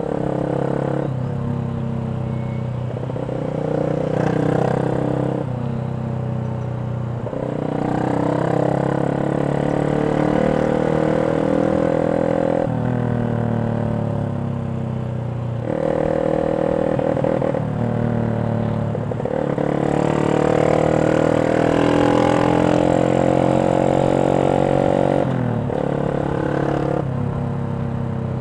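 Yamaha Jupiter MX 135's single-cylinder four-stroke engine breathing through a CLD X Monster aftermarket racing exhaust, ridden under throttle. The exhaust note climbs in pitch, then drops at each gear change, several times over, in short bursts of gas.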